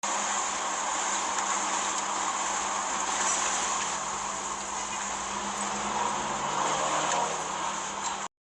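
Steady rushing road and engine noise of a moving vehicle, with a low steady hum underneath; it starts suddenly and cuts off suddenly just before the end.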